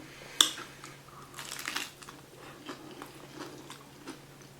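Crunch of a bite into a Doritos taco shell about half a second in, followed by crunchy chewing with smaller crackles.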